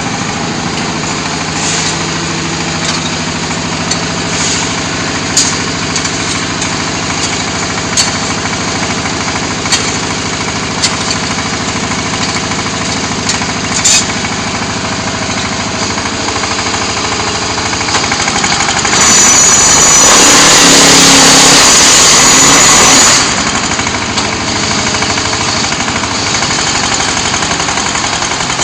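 Diesel-driven concrete hollow block machine running steadily, with sharp clacks every few seconds, and a much louder harsh noise about two-thirds of the way through that lasts about four seconds before cutting off.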